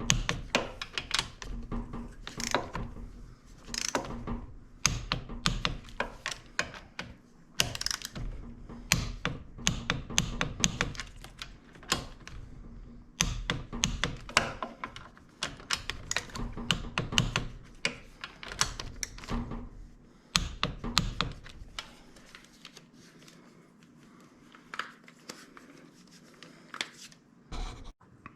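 Metal hand tools clicking and knocking on the Kawasaki KLX125's engine, with many irregular sharp clicks of wrench work on the cylinder head bolts. The clicking thins out and gets quieter about two-thirds of the way through.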